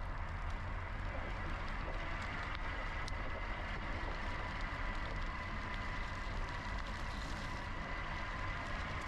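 Riding sound from a GoCycle GX electric bike: a steady low rumble of wind and tyres with a thin, steady whine from the motor that rises a little near the end.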